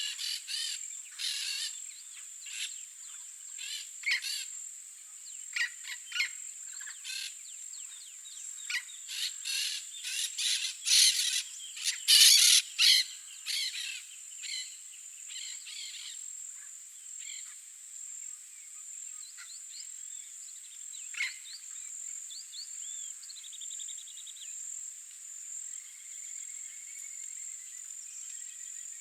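Yellow-faced parrots calling in a run of short, harsh squawks, loudest a little before the middle, then falling silent. A steady high-pitched insect drone runs underneath throughout.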